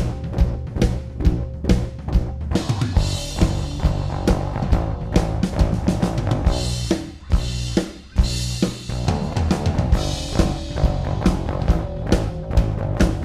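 A recorded drum kit with bass: fast kick and snare hits over a sustained bass line, with stretches of cymbal wash, played back through a compressor plugin. The beat drops out briefly twice in the middle.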